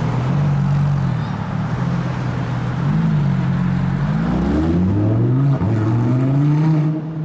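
A car engine running at low revs, then accelerating from about four seconds in: its pitch climbs, drops at a gear change, and climbs again.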